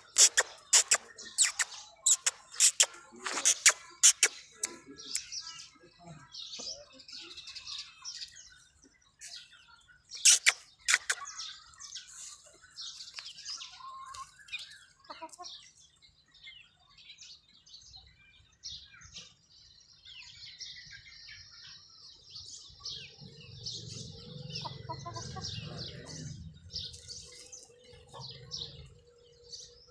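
Aseel chickens: a run of sharp, loud clattering sounds in the first five seconds and again briefly about ten seconds in, then many short, high chirps. A low steady hum comes in about two thirds of the way through.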